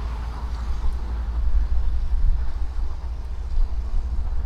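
Steady low rumble of a heavy vehicle's diesel engine.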